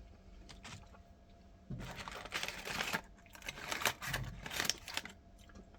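Crinkling and rustling of an ice cream sandwich's wrapper being handled, in two spells, about two seconds in and again around four seconds in.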